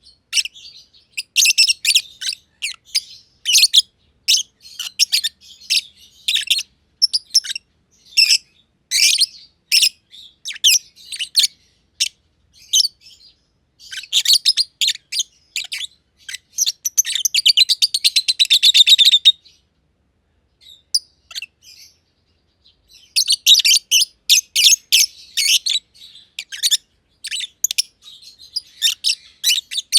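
Masked (personata) lovebirds chirping in sharp, high, rapid bursts, with a quick run of chirps in the middle and a short pause of a few seconds before they start again.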